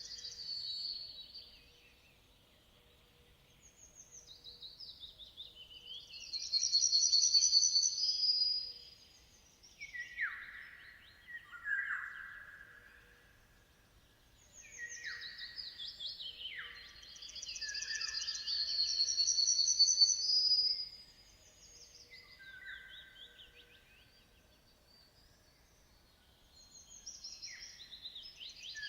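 Songbird singing: long, varied phrases of high trills and downward-sweeping notes, repeated roughly every ten seconds with quiet pauses between.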